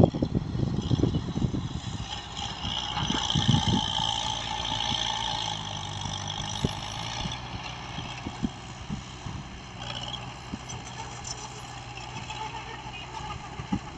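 Diesel engine of heavy earthmoving machinery running steadily, with a higher whine through the first half and scattered knocks. Louder rumbling in the first second or two.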